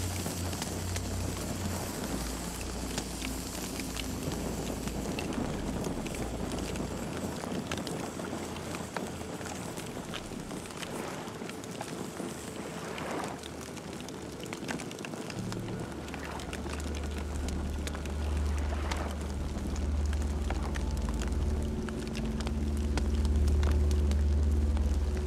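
Campfire burning with constant crackling and frequent sharp pops from the burning wood. A low rumble comes in about two thirds of the way through and grows louder toward the end.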